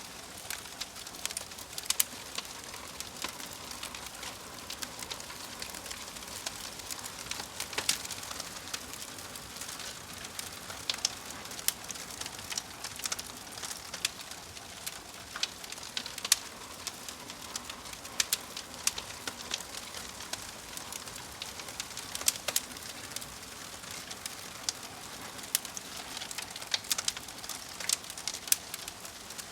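Wood fire crackling steadily, with frequent sharp pops scattered irregularly over a soft hiss.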